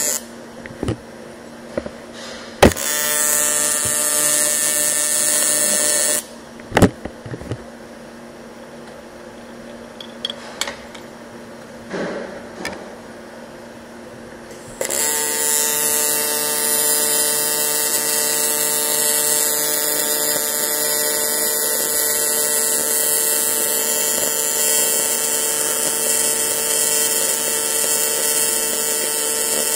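Welding arc buzzing steadily on thin A5052 aluminium sheet. It runs for a few seconds near the start, stops, and starts again about halfway through. In the gap, a few sharp clicks sound over quiet room tone.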